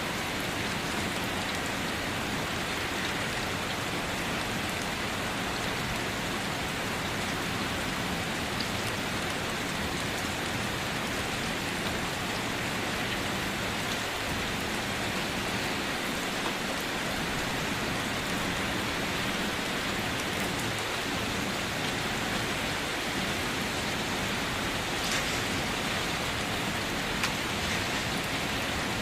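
Steady rain falling, an even hiss with no letup, with a few sharper drop taps in the last few seconds.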